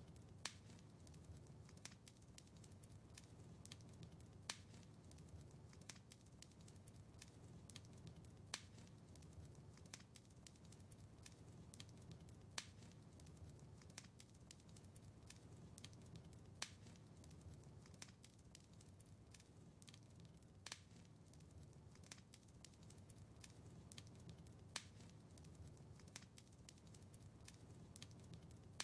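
Quiet wood fire crackling in a fireplace: a steady scatter of small sharp pops over a low hum, with a louder snap about every four seconds.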